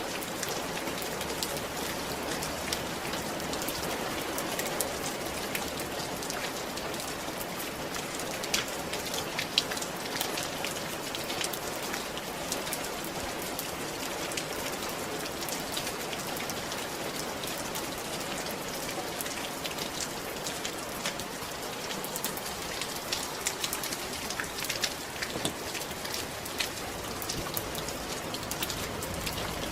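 Steady rain falling on a roof: a constant hiss with many separate drops tapping sharply on top of it.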